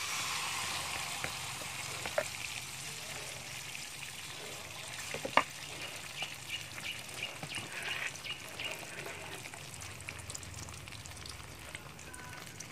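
Egg and fish-paste batter frying in hot oil in a steel wok: a loud sizzle, strongest just after it hits the oil and slowly easing, with small crackles and pops throughout. A single sharp click about five seconds in.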